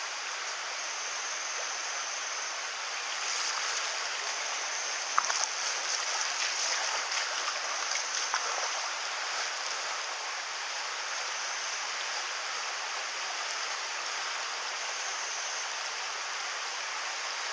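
Mountain stream water running steadily over rocks, with a few small sharp knocks or splashes about a third of the way in.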